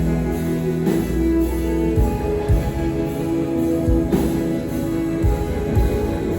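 Rock band playing live: guitar and bass hold sustained notes over a drum kit, with low drum hits about once a second.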